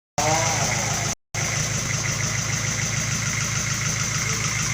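Sawmill's engine running steadily with an even pulsing beat, with a brief break in the sound about a second in.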